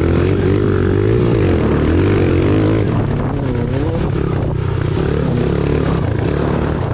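Small dirt bike engine being ridden, its pitch rising and falling as the throttle is worked, under a steady low engine drone and wind noise.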